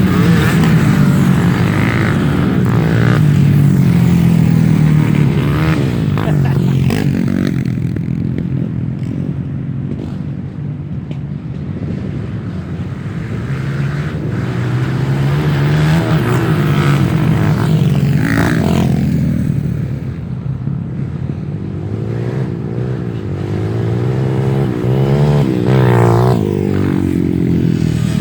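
Off-road trail motorcycles revving, their engines rising and falling in pitch again and again as they work through the trail, with the sound swelling up several times.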